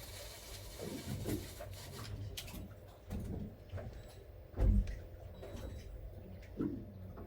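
Irregular low thumps and rubbing, with one heavier thump about halfway through.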